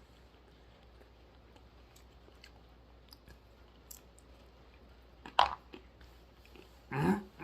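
Faint chewing of dry roasted almonds with small scattered clicks, then a sharp, loud sound about five seconds in. Near the end comes a short voiced sound whose pitch rises.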